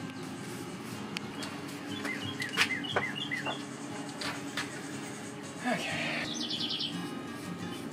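Small birds chirping in short, repeated notes, in two runs with a louder call between them, over soft background music. A couple of sharp clicks come about two and a half and three seconds in.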